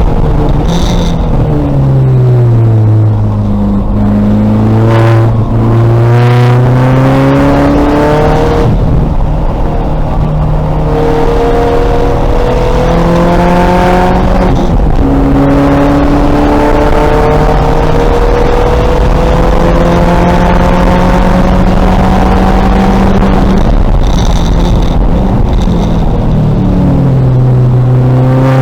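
2000 VW Golf race car's engine running hard on track, its pitch sweeping down and up with the revs through gear changes. The note drops in the first few seconds, climbs again, then rises in a series of steps through the middle and falls back near the end.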